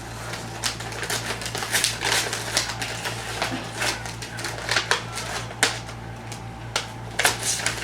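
Snack packaging and the crate's contents being handled: irregular crinkles, rustles and small clicks of wrappers, paper and cardboard, over a steady low electrical hum.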